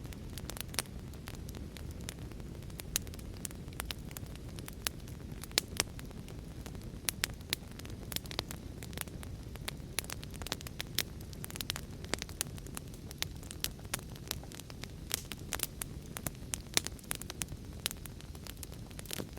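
Wood fire in a fireplace crackling, with frequent irregular sharp pops, over a steady low rumble of heavy rain.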